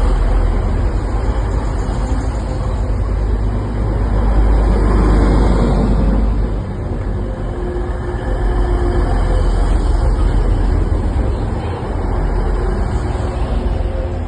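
A train at close range: a loud, steady low rumble that swells about four to six seconds in.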